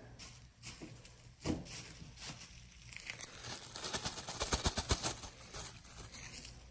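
Hands rustling and crinkling the bedding and food in a small worm bin: scattered light crackles, then a quick dense run of crackling about halfway through.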